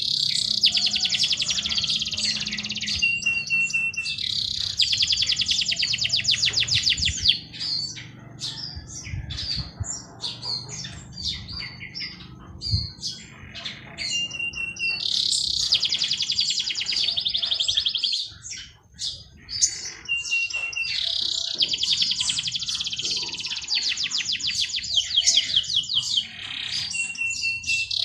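A songbird singing the same song over and over: a short held whistle, then a long, very fast trill lasting about three seconds. Shorter chirps from other birds fill a stretch in the middle.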